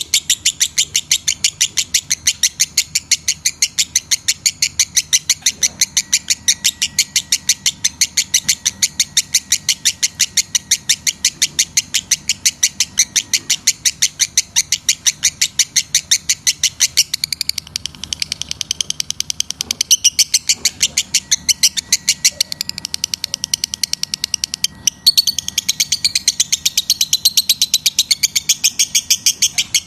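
Lovebird chattering: a rapid, regular run of short high chirps, about five a second, with a brief break about five seconds before the end.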